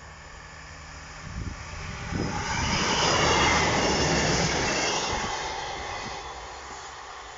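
A two-car Class 158 diesel multiple unit passing at speed. The noise of its wheels on the rails and its diesel engines builds to a peak about three seconds in, then fades as the train moves away.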